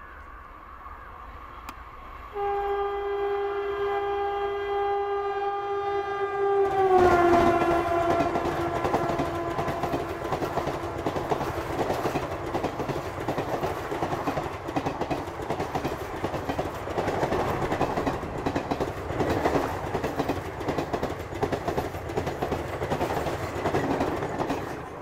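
WAP-4 electric locomotive's horn sounds steadily from about two seconds in as the express approaches at speed, and its pitch drops about seven seconds in as the locomotive passes. The passenger coaches then rush past with a continuous clickety-clack of wheels over rail joints.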